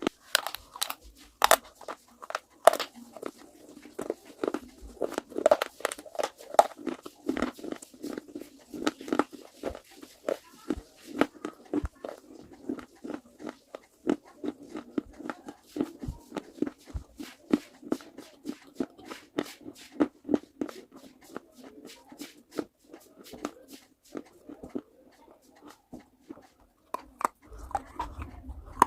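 Hard baked clay pieces being bitten and chewed close to the microphone. There is a fast, continuous run of sharp crunches and cracks, loudest in the first few seconds.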